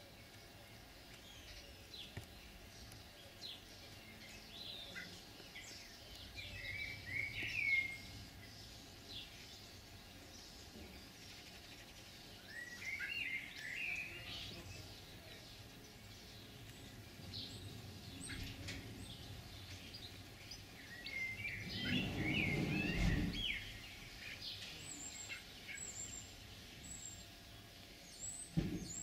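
Songbirds singing in short bursts of quick, twittering chirps, with a brief low rumble about three quarters of the way through.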